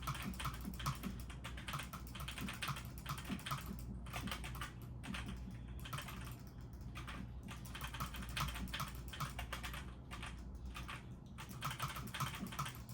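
Typing on a computer keyboard in quick bursts of keystrokes with short pauses between them, over a steady low hum.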